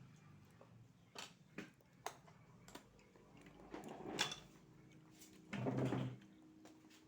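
Eating raw oysters: a few light clicks of oyster shell, then two louder bursts of mouth sounds from slurping and chewing, about four seconds in and near six seconds.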